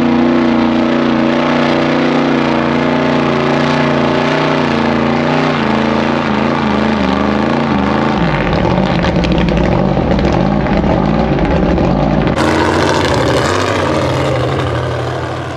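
Mud bog truck's engine running hard at high revs, holding a steady pitch for about five seconds, then the revs rise and fall repeatedly. The sound changes abruptly about twelve seconds in and fades out at the end.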